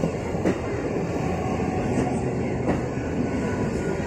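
Suburban electric local train (EMU) passing close by at speed: steady running noise of wheels on rails, with a few sharp clacks as the wheels cross rail joints.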